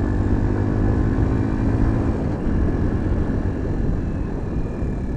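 Pulse Adrenaline 125 motorcycle's 125 cc engine running while riding, with wind and road noise. A steady engine note holds for about two seconds, then gives way to a rougher, noisier rumble.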